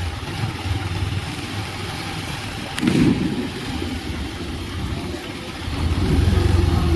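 Bajaj Pulsar 220 motorcycle's single-cylinder engine running while the bike is ridden. A brief louder sound comes about three seconds in, and the engine gets louder near the end.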